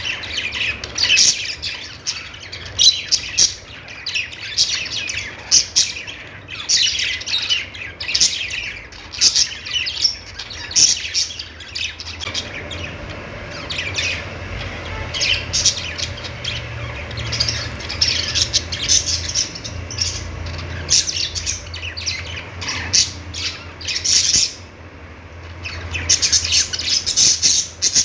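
Budgerigars chirping and chattering: a constant stream of quick, high chirps and short squawky calls from several birds, thinning briefly a few seconds before the end.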